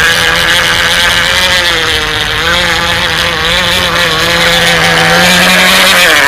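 K&B 7.5 model two-stroke glow outboard engine on an RC F1 racing boat running at high revs, its pitch wavering up and down.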